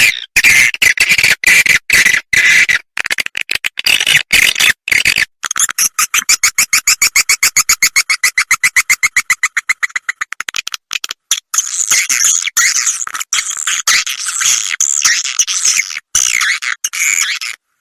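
Edible-nest swiftlet calls played as a swiftlet-house lure sound ("suara inap", the roosting call): dense chirping and twittering, broken by short gaps. From about five to ten seconds in it changes to a fast, even rattle of clicks, several a second.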